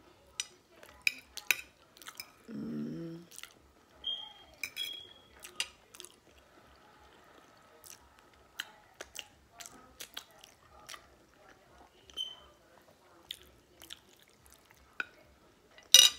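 A person chewing a mouthful of pasta close to the microphone, with many small wet clicks and smacks of the mouth and a brief hum about two and a half seconds in. Near the end comes a sharp, loud clatter of a fork against the plate.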